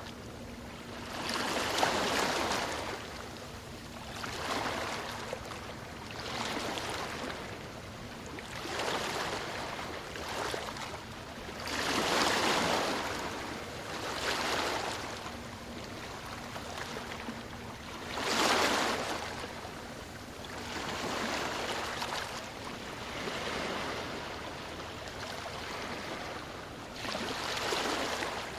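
Ocean waves breaking and washing up a shore, the surf swelling and falling back every two to three seconds, with bigger breakers about two, twelve and eighteen seconds in and near the end.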